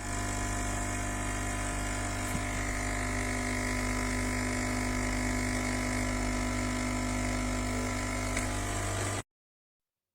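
De'Longhi Vintage Icona espresso machine's pump running with a steady buzzing hum, stopping suddenly about nine seconds in.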